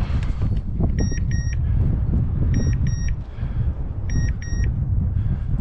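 Electronic beeper on a hunting dog's collar, sounding short high beeps in pairs about every second and a half. Wind is rumbling on the microphone.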